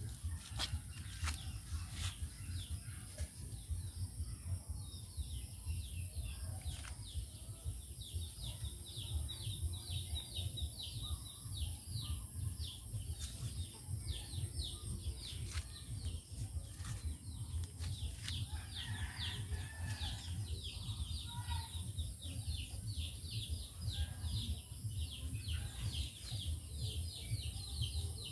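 Small birds chirping in many quick, high notes that slide downward, several a second, over a steady low rumble.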